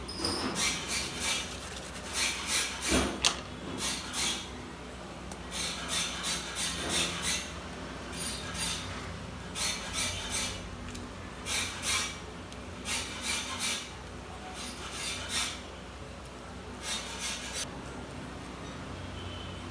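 Short scraping strokes in quick clusters of two to four, repeated throughout, as hand tools work on a laptop's plastic and metal parts during a keyboard replacement. A low steady hum lies underneath.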